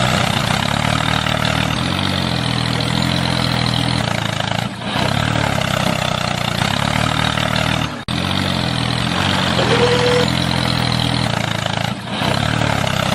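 A motor running steadily with a low, slightly wavering drone, cut by brief dips about every four seconds.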